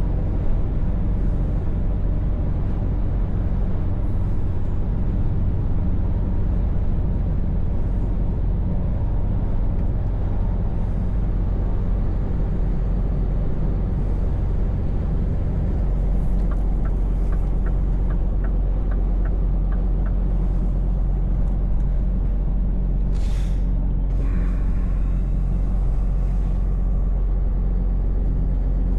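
Scania V8 truck engine running steadily, its note shifting about halfway through. A light ticking at about three a second comes for a few seconds, then a sharp hiss of air brakes is followed by a longer, softer hiss of air.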